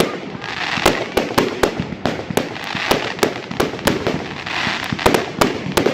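Fireworks going off: a rapid, irregular series of sharp bangs, several a second, with bursts of hissing between them.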